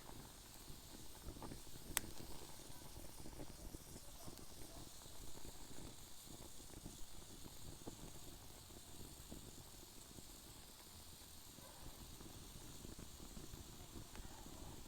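Wood fire burning in a fire pit: a faint, steady crackle and hiss, with one sharp pop about two seconds in and a smaller one later.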